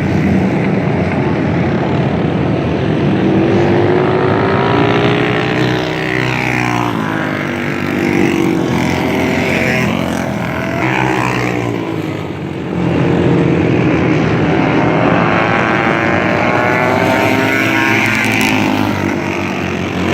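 Several dirt bike engines racing around a dirt track, revving up and down through the gears, their pitches rising and falling and overlapping as the bikes pass, with a short lull about two-thirds of the way in.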